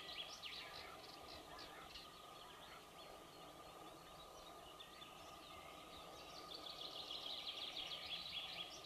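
Faint wild birdsong: short bursts of rapid high notes near the start, then a longer fast trill in the last couple of seconds, over a faint steady tone.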